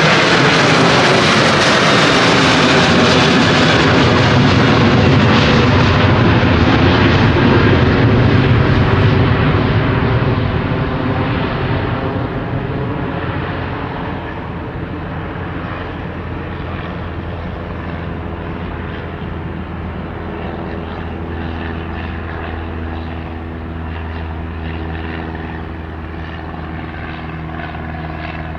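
Airplane passing close by: a loud engine rush whose tones slide down in pitch as it goes past, fading after about ten seconds into a quieter, steady low engine drone.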